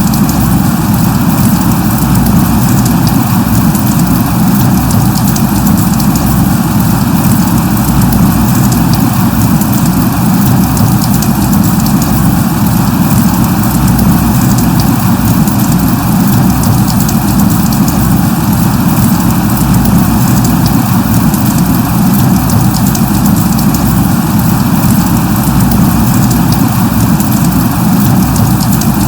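Light rain (drizzle) falling steadily: an even, unbroken rush of rain, heaviest in a low rumble, with faint scattered ticks of drops.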